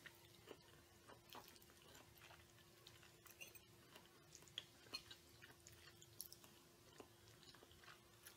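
Faint chewing of pasta salad: soft, scattered mouth clicks at irregular intervals, over a thin steady hum.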